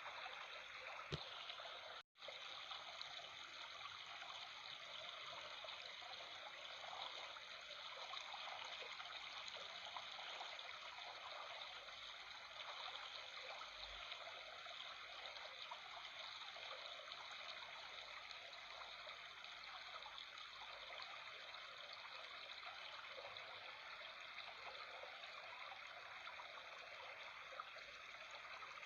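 Babbling water trickling steadily, with one faint click about a second in and a momentary cut-out in the sound shortly after.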